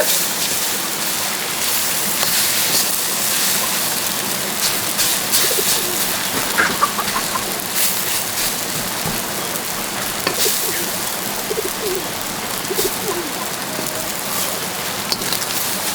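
Poultry giving short, low, soft calls a few times, mostly in the second half, over a steady hiss and patter like rain.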